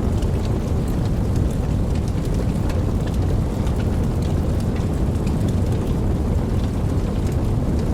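Steady rain: an even, dense wash of sound weighted low, with many scattered sharp ticks of single drops.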